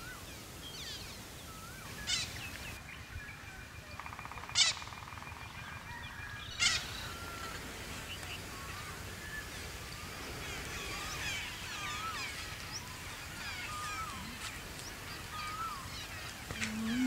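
Many wild birds chirping and whistling in open countryside over a faint low rumble, with three louder, sharp calls in the first seven seconds. A low held music note swells in just before the end.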